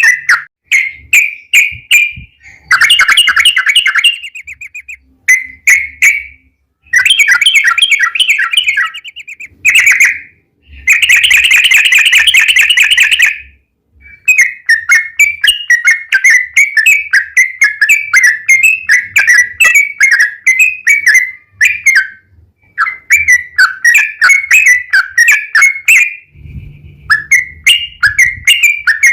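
Yellow-vented bulbul (trucukan) singing a rapid series of short chirping notes. Three times it breaks into a dense, fast trill ("ropel") lasting about two seconds, with brief pauses between phrases.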